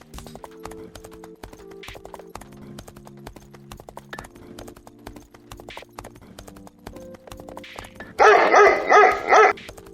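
Soft background music with light ticking beats, then, near the end, a loud quivering animal call lasting about a second and a half.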